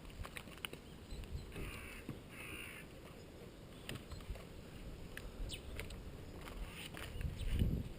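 A crow cawing twice in quick succession, two harsh calls of about half a second each, starting about one and a half seconds in. A low rumble swells near the end.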